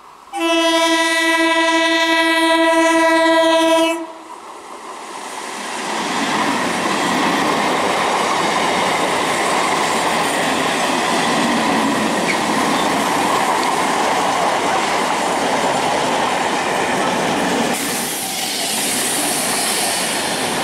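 Electric multiple unit (EMU) commuter train sounding one long horn blast, a single steady note starting about half a second in and lasting about three and a half seconds. The train then runs close past with a steady rush of wheel-on-rail noise, which gets a little brighter near the end.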